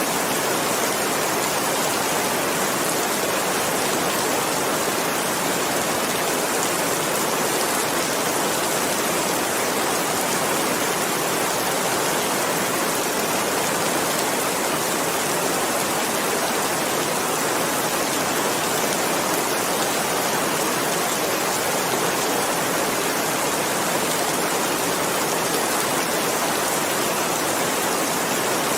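Steady rain: a dense, even hiss of falling rain.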